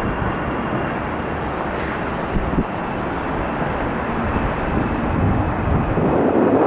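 Jet airliner engine noise, a steady rush with a faint high whine, with wind buffeting the microphone and swelling near the end.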